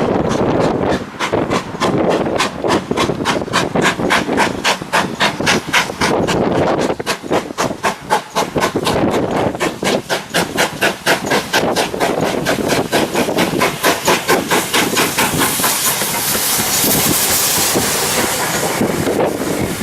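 Steam locomotive working under steam, its exhaust beating evenly at about four beats a second. After about fifteen seconds the beats fade into a steady hiss of steam.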